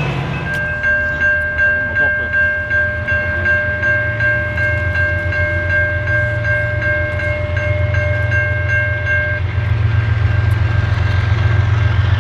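Diesel locomotive air horn sounding one long, steady chord for about nine seconds, then cutting off, over the low rumble of the passing train, which grows louder near the end.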